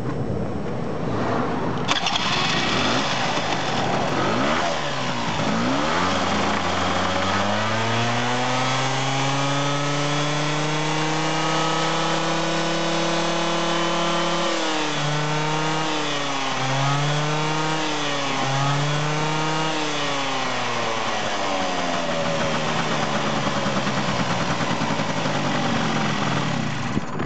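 Honda Cabina 50 scooter's small two-stroke engine catching about two seconds in. Its speed climbs steadily for several seconds, then it is revved three times in quick blips before dropping back to idle.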